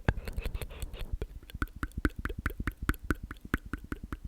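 ASMR mouth sounds close to the microphone: a quick, steady run of small wet mouth clicks, about eight to ten a second, with a short breathy hiss in the first second.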